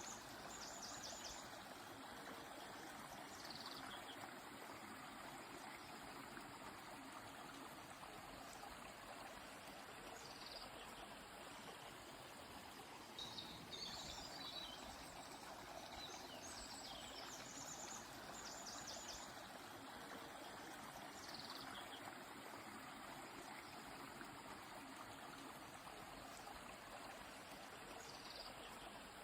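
Steady rush of a flowing river, with small birds singing brief high notes every few seconds: short rapid trills and quick falling calls.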